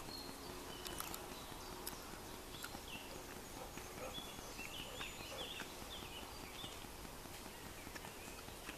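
Quiet woodland ambience, with faint short bird chirps in the middle and a few soft clicks.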